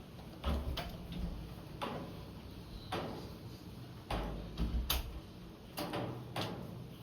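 Raindrops falling on a hard surface outside a window, tapping at irregular intervals over a faint hiss of rain. Some of the drops land with a dull, low thud.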